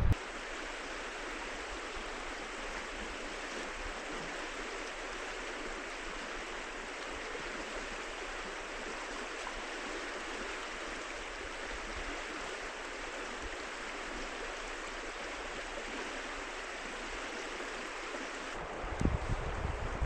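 Steady rush of flowing river water, an even hiss with no low rumble.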